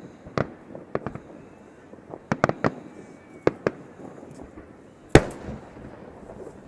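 Fireworks shells bursting in an irregular run of sharp bangs, some in quick clusters; the loudest comes about five seconds in and leaves a trailing rumble.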